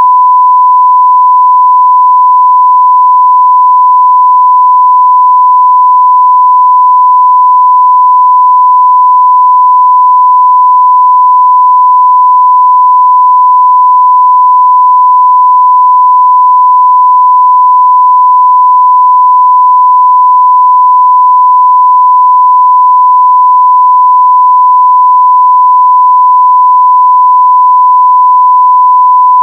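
A continuous 1 kHz sine-wave test tone at full level (0 dB), one pure steady pitch with no change.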